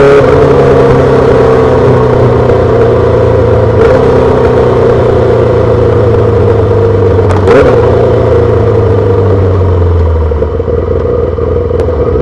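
2008 Yamaha R6 inline-four with a full SC-Project exhaust running under steady throttle at an even engine speed. There is a short break in the note about seven and a half seconds in, and the engine eases off slightly near the end.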